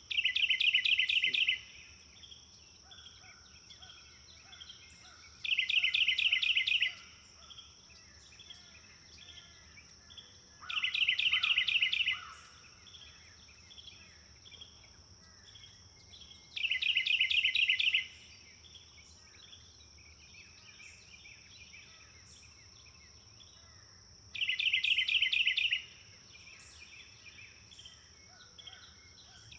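A songbird sings a short, fast trill five times, each about a second and a half long and coming every five to six seconds. Fainter chirps from other birds fill the gaps, over a steady high-pitched whine.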